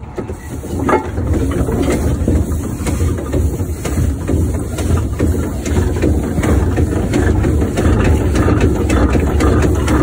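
1914 Fowler showman's steam engine running under way: a heavy, steady low rumble with frequent short clicks and knocks from its motion over it.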